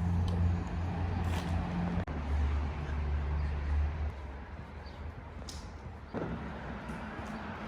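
A motor vehicle engine running with a steady low hum. It drops in pitch about two seconds in and fades soon after, and a fainter engine sound comes back near the end.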